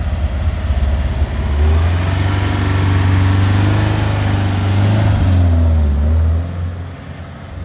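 Porsche 356 coupe's air-cooled flat-four engine pulling away and accelerating, its pitch rising twice as it revs, with a heavy low rumble, then getting quieter near the end as the car drives off.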